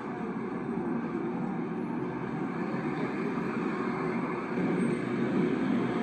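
Steady low rumble of a moving vehicle, a little louder near the end.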